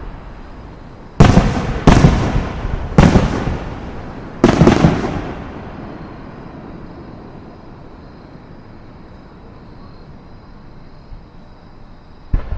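Aerial fireworks bursting: a quick run of loud booms in the first five seconds, the last one a double bang, each trailing off in a rolling echo. A long lull follows before one more boom near the end.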